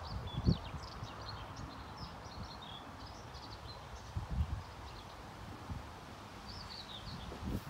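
Small birds chirping and singing in quick, short phrases, over irregular low rumbles and thumps, with a few louder thumps near the start, about halfway and near the end.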